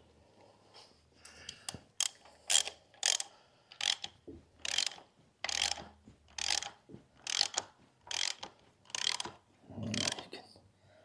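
Ratchet wrench worked in short repeated strokes, about two a second, each back-swing giving a quick burst of pawl clicks, as a bolt is turned during the rear crank seal and wear ring installation.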